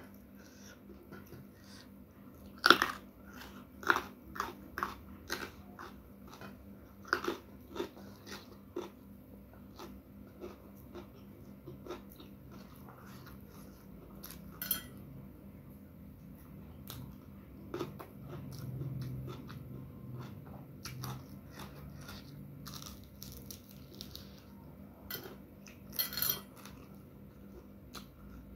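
Close-mic crunching and chewing of raw eggplant eaten with rice: a sharp, loud crunch about three seconds in, a run of crisp crunches over the next few seconds, then softer chewing with a few more crunches near the end.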